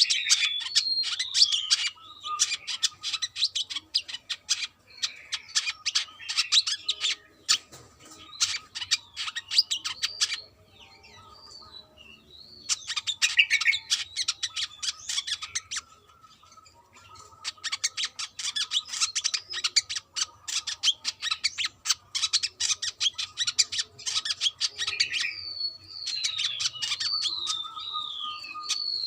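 Brown-throated sunbird (kolibri kelapa) singing a rapid, chattering song of fast high notes with sliding whistles mixed in. It breaks off twice for a second or two, about a third and half of the way through.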